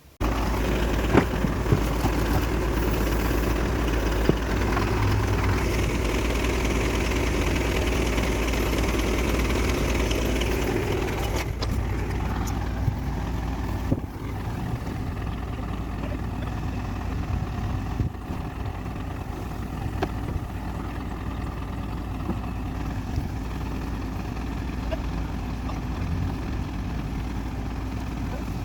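A car engine running steadily with a deep low rumble; the higher-pitched part of the noise drops away about eleven seconds in.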